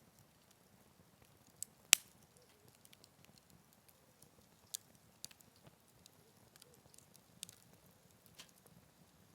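Firewood crackling in a campfire on a Picogrill 398 fire pit: scattered sharp pops, the loudest about two seconds in, over a faint low hiss.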